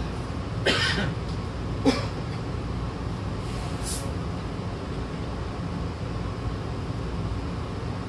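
Hankyu train standing with its doors shut, its equipment humming steadily. About a second in there is a short hiss, then a sharp clunk just before two seconds, and a thin, high hiss near four seconds.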